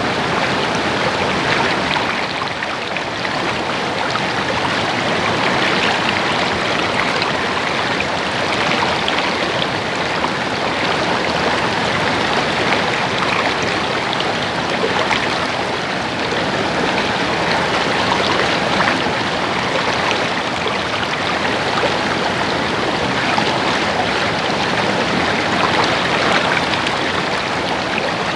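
Water of a stream or small creek gurgling and splashing steadily over rocks, a dense even babble.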